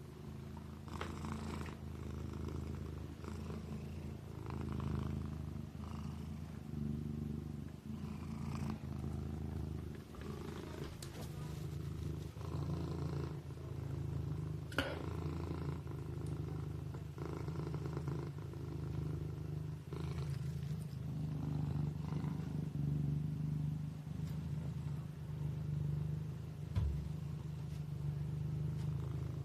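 Kitten purring steadily, the purr swelling and easing about every two seconds. There is a brief click about halfway through and a short thump near the end.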